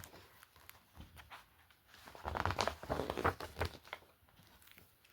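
Paper rustling and crinkling as a book's pages are handled and turned, with a few soft clicks and a denser burst of rustling about two seconds in.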